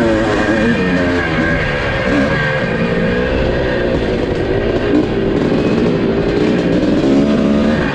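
Two-stroke motocross bike engine revving up and down through the throttle, mixed with rock music.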